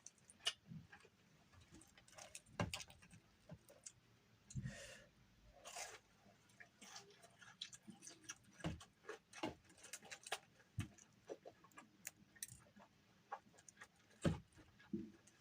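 Faint eating sounds close to the microphone: scattered small clicks and taps of chewing and utensils. Two short hissy noises come about five and six seconds in, and a duller knock near the end.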